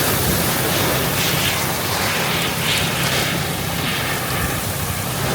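Very heavy rain coming down crazy hard on a car's roof and windshield, heard from inside the car as a dense, steady hiss, with a low steady hum underneath.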